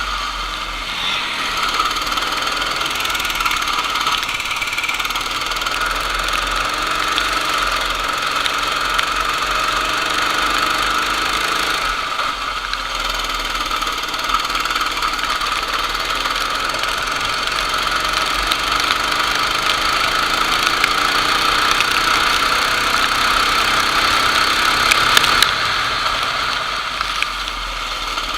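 Go-kart engine running under race load, its pitch rising and falling again and again as the throttle is opened and closed through corners.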